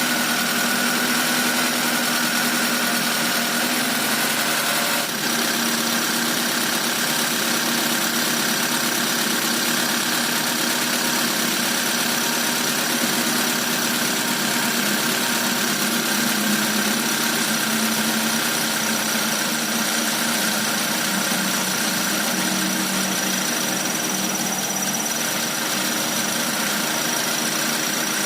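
Rebuilt Proton 4G13 SOHC engine, fitted with 4G15 (1.5-litre) pistons and a racing cam, idling steadily after its overhaul. It carries an unfamiliar mechanical noise that the mechanic wonders may come from a spring.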